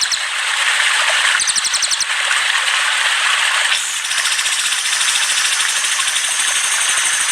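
Recorded songbird chatter: fast, evenly pulsed high trills come in twice early and again from about four seconds on, over a dense steady hiss, as played to train caged songbirds.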